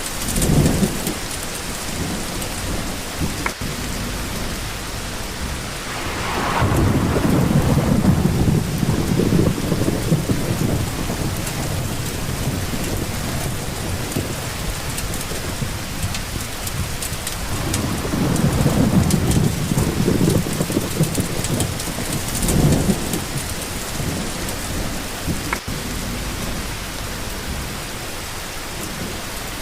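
Steady rain with rolling thunder: a short rumble right at the start, a long one from about six to eleven seconds in, and more rumbling from about eighteen to twenty-three seconds in.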